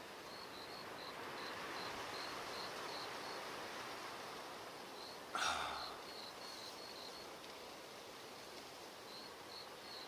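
An insect chirping, short high pips about four to five a second in runs with pauses, over a steady rush of wind. One short sharp thump about halfway through.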